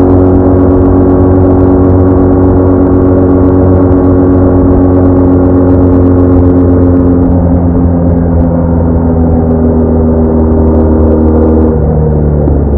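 BMW R1200R motorcycle's boxer-twin engine running steadily under way with a loud, even drone. Its pitch steps down a little about seven seconds in and again just before the end.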